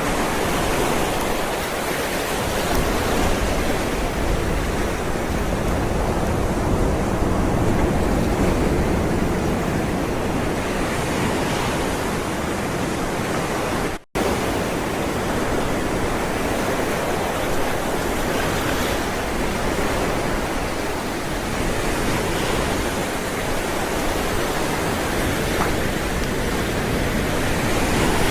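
Ocean surf: waves rolling in and washing up as a continuous rushing noise that swells and eases every few seconds. The sound cuts out for an instant about halfway through.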